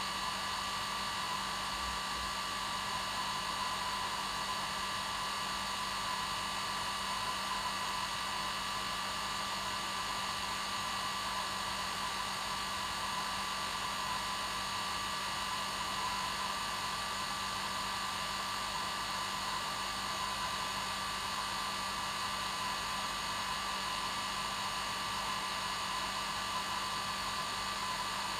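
Hair dryer running steadily: a continuous airy noise with a steady motor hum and whine, unchanging throughout.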